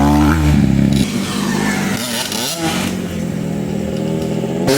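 Dirt bike engine revving hard for about a second, then the revs drop away, with a few shorter rises and falls in pitch after that.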